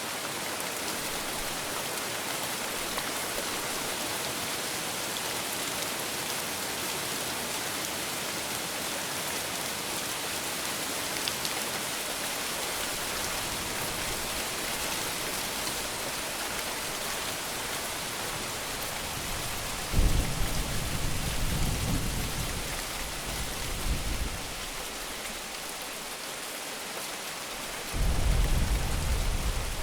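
Steady heavy rain hissing, with thunder rumbling in twice in the second half: a sudden low roll about two-thirds of the way in that fades with a second swell, then another near the end.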